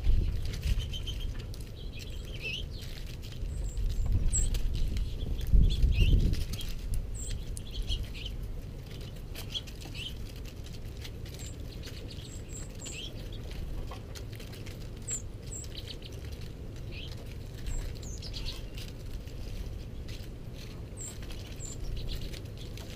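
Small birds giving short, scattered chirps, over soft pattering and low knocks from house finches pecking seed on the snowy board close to the microphone.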